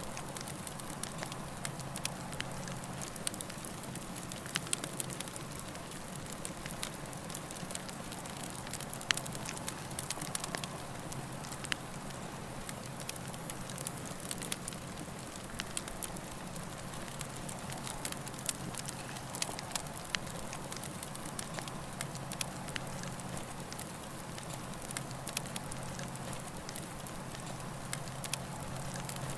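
Campfire burning: a steady hiss and low rumble with frequent, irregular small crackles and pops of burning wood.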